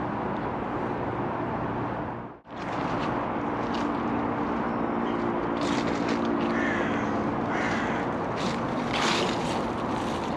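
Steady outdoor background noise with a low hum, and a run of short, harsh bird calls through the second half. The sound cuts out briefly about two and a half seconds in.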